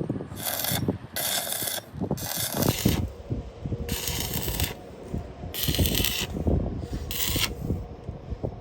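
Repeated short bursts of hissing, about six of them, each around half a second long, over a steady low clatter of metal knocks and rubbing from workshop work.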